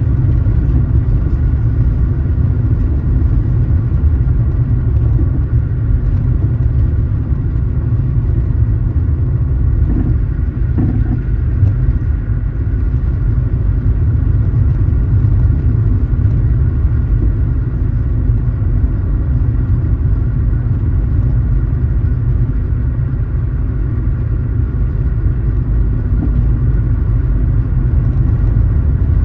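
Car driving at a steady speed: a steady low rumble of engine and road noise.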